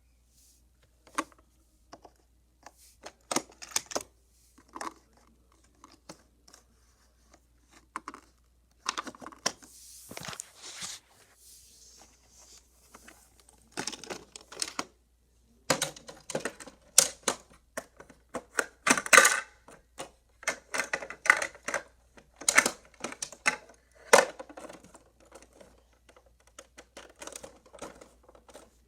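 Die-cast toy cars and a plastic Hot Wheels playset clicking and clattering as they are handled, in irregular sharp knocks that come thicker and louder in the second half, with a stretch of steadier rattling noise around ten seconds in.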